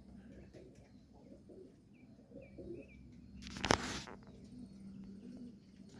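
Pigeons cooing, with a few short high chirps about two seconds in. A loud brief rush of noise comes a little past halfway.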